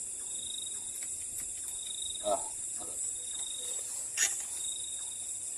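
Night insects calling steadily, with a high pulsing trill that starts and stops several times. A brief sound about two seconds in and a sharp click a little after four seconds.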